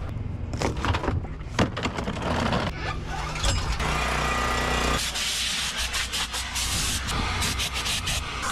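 Rubbing and scrubbing strokes of cleaning work over a low steady hum, giving way about five seconds in to a steady hiss.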